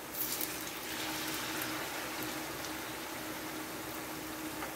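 Batter-coated sweet potato strips sizzling in hot oil in a frying pan. The sizzle jumps up sharply just after the start as a fresh batch is laid into the oil, then settles into a steady crackling hiss.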